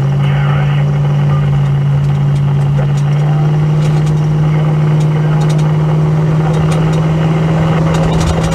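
Holden HK car engine and road noise heard from inside the cabin: a steady drone whose pitch steps up right at the start and again about three seconds in as the car picks up speed after slowing.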